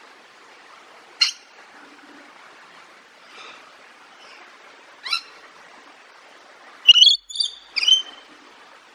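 Bird calling: a single short, sharp call about a second in, another about five seconds in, then a quick run of several chirps near the end, over a steady soft hiss.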